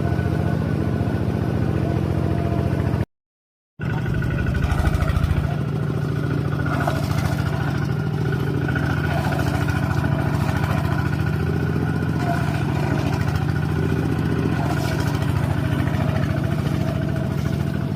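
A motor vehicle's engine running steadily, with a brief break of silence about three seconds in.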